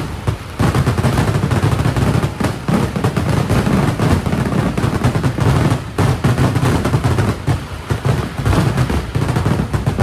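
Kerala temple fireworks (vedikkettu): a dense barrage of firecracker explosions going off in rapid succession, an almost continuous rattle of loud bangs with a few short lulls.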